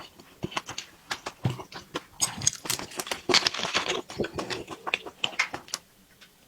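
Close-up eating sounds: a person chewing a mouthful with quick, irregular wet smacks and clicks, stopping shortly before the end.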